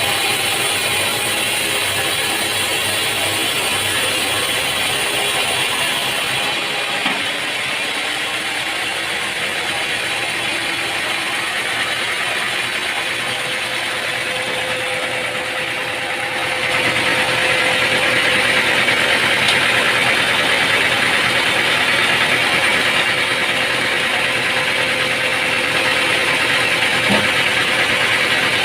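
Sawmill machinery running steadily, with an engine-like hum and mechanical clatter. About two-thirds of the way through it grows louder and takes on a harsher hiss.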